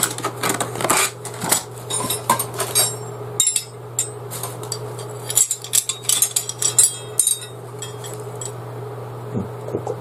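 Steel J-shaped rope stakes clinking and clattering against one another as they are handled. The rapid metallic clicks come in two busy stretches with a lull in the middle, over a steady low hum.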